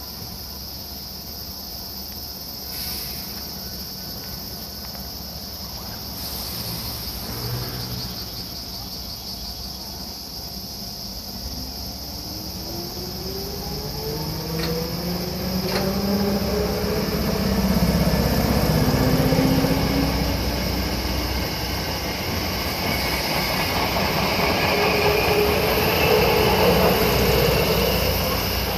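A train accelerating away, its traction motors giving a rising whine that grows louder over the second half. Insects buzz steadily and shrilly throughout.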